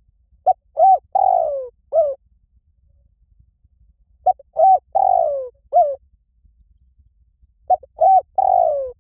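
Spotted dove cooing: three repeated phrases of four notes each, about every three and a half seconds, the third note in each phrase longer and falling in pitch.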